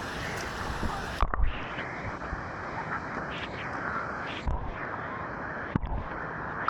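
Water sloshing and splashing around a swimmer's camera, with a steady rush of water and a few dull thumps. About a second in the sound turns muffled, as the camera dips low in the water.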